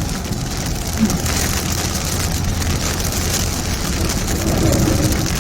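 Heavy rain falling on a car that is driving through it, over a steady low rumble of engine and road.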